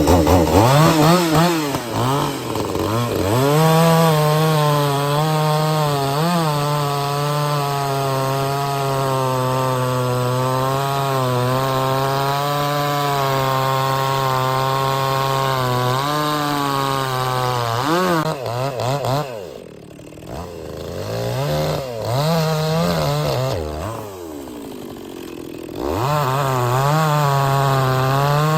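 Chainsaw cutting through oak logs at high revs, its engine note holding steady with small dips under load. About two-thirds of the way through, the engine drops toward idle twice, then revs back up to full throttle near the end.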